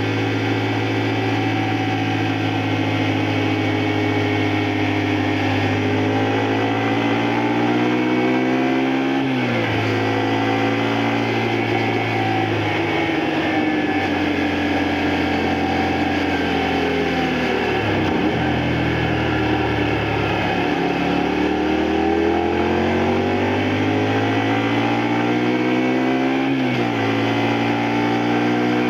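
Honda Varadero XL125V's 125 cc V-twin engine heard from the rider's seat under way: the revs climb and drop sharply at a gear change about nine seconds in, fall away as the bike slows to a low point around eighteen seconds, then climb again with another gear change near the end.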